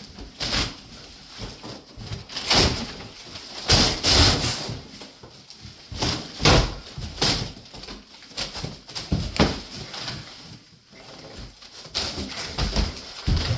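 Cat-tree parts and packaging being handled: irregular knocks, bumps and scrapes, a louder one every second or two.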